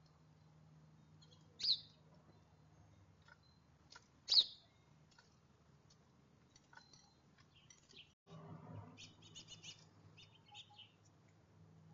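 Songbirds chirping: two loud, sharp down-slurred chirps about one and a half and four and a half seconds in, then a run of quick twittering chirps near the end, over a faint low hum.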